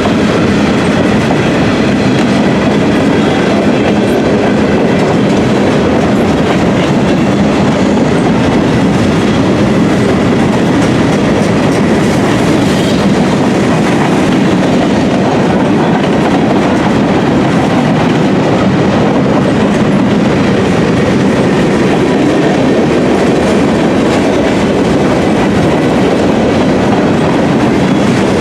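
Freight train of gondola cars rolling past, a loud, steady rumble of steel wheels on the rails.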